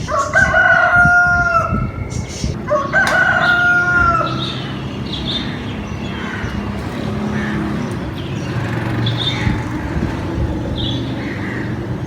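A rooster crowing twice in quick succession, each crow about a second and a half long and held at a steady pitch, followed by fainter short chirping calls.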